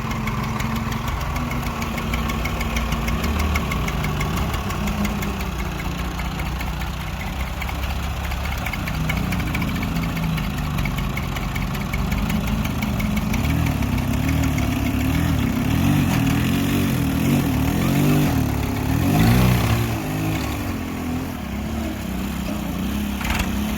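Tractor engine running steadily, with its pitch rising and falling in the second half.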